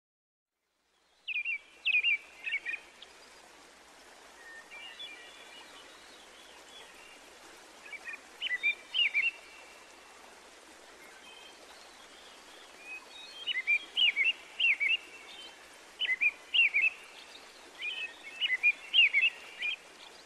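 Songbirds singing in short, quick chirping phrases over a steady background hiss. The song starts about a second in, comes in scattered bursts, and grows busier in the last third.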